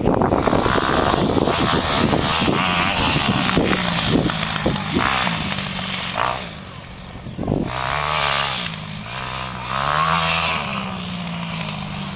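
Suzuki RM-Z250 four-stroke single-cylinder dirt bike engine running, its revs rising and falling with the throttle. It drops quieter a little past halfway, then picks up again.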